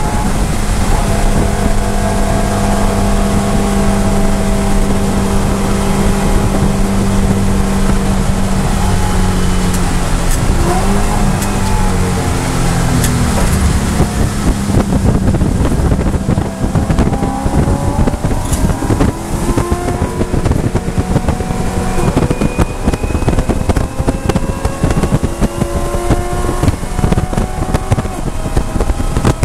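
BMW E92 M3's 4.0-litre V8 at full race pace, heard from inside the cabin: it comes off the throttle from high revs, shifts down for a slow corner, then pulls hard with the revs climbing, an upshift about two-thirds of the way in, and the revs climbing again. Wind and tyre noise run underneath.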